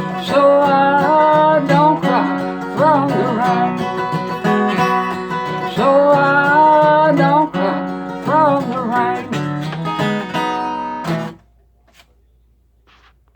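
Closing instrumental of a country song: acoustic guitar strumming under a lead melody with sliding notes, stopping abruptly about eleven seconds in.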